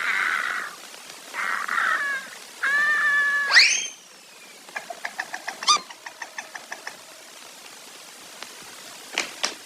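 An animal's drawn-out pitched calls, four in the first four seconds, the last sweeping up steeply, followed by a run of quick clicks about eight a second and a few sharper clicks near the end.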